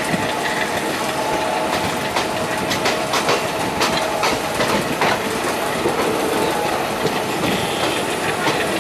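Indian Railways express train pulling out of a station, heard from inside a coach. A steady running rumble carries irregular sharp clacks as the wheels cross rail joints.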